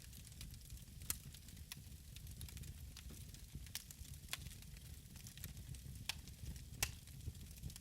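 Wood fire in a fireplace crackling, with irregular sharp pops, the loudest about a second in and near the end, over a low steady rumble.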